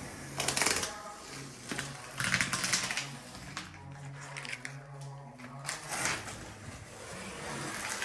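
Painter's tape being peeled off along freshly laid silicone caulk: short crackling rips, three or four of them, with pauses between.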